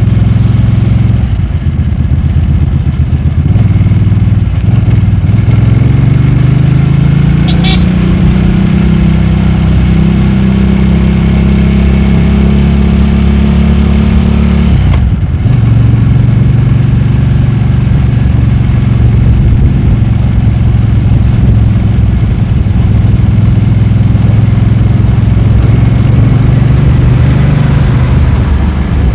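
Motorcycle engine under way, running loud and continuous. Its pitch climbs a few seconds in, drops sharply about halfway through, then holds steady.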